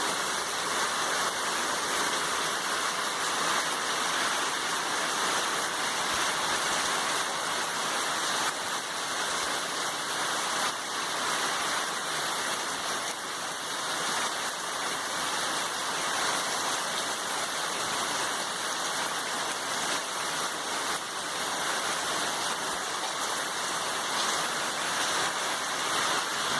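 Heavy rain falling steadily, a continuous hiss of water that holds even throughout.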